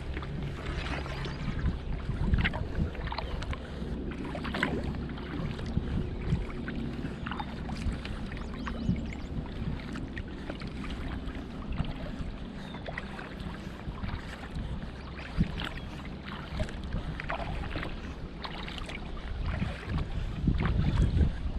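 Kayak paddling: the paddle dips and drips in the water in short, irregular splashes over a low wind rumble on the microphone.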